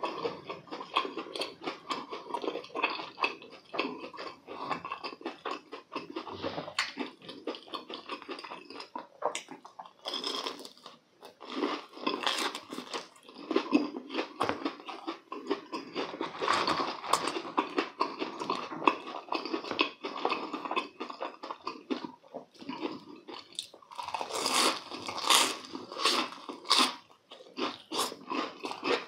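Close-miked eating of a breadcrumb-coated, deep-fried corn dog and croquette: the crisp crust crackles and crunches with every chew. The crunching grows louder for stretches around the middle and again near the end.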